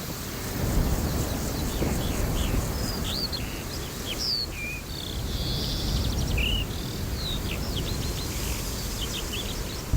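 Wild birds chirping in many short, quick notes over a low, steady rumble.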